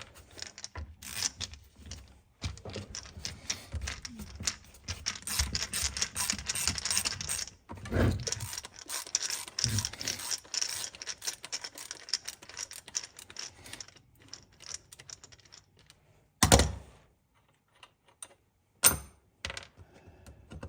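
Rapid run of small metallic clicks as the two T25 Torx screws holding the inside felling dog are backed out of a chainsaw's powerhead, then a few scattered clicks and two sharp metal knocks near the end as the dog comes off.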